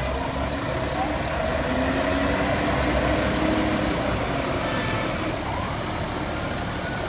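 Heavy truck engines running steadily as a convoy moves along a street, with voices in the background. A rising whine begins near the end.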